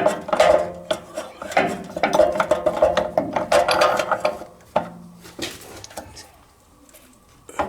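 Hand work on plumbing fittings: a run of rubbing, scraping strokes with small metal clinks, about two a second, that stops about four seconds in, followed by a single knock.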